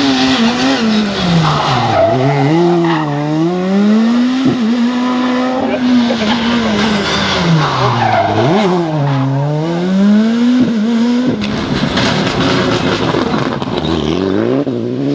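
Rally car engine working hard through a series of corners. The revs drop sharply under braking with quick blips on the downshifts, then climb again as it accelerates away, twice over. Near the end the note gives way to a rushing noise and another engine note rising.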